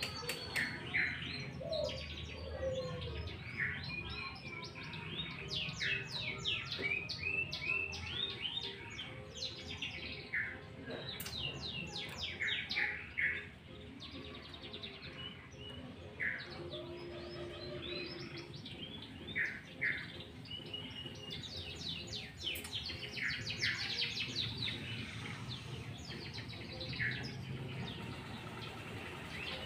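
Sooty-headed bulbul calling and singing busily: bursts of short, quickly sweeping notes repeated again and again, over a faint low background hum.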